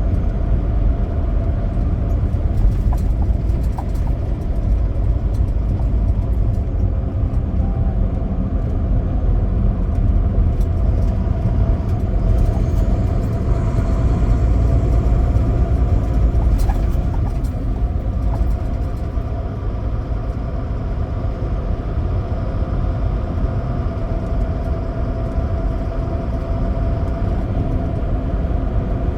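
A big rig semi truck's diesel engine and tyres running at a steady drive, a continuous low rumble with a faint steady whine on top.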